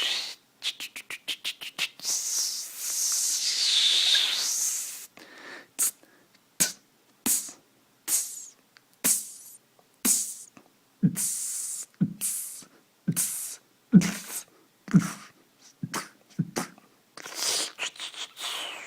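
Beatboxing. It opens with a quick run of about eight clicks, then a few seconds of wavering hissing noise. From there it becomes a slow beat of single mouth-made drum sounds, about one a second, with deep kick-like booms alternating with sharper hissing snare-like hits.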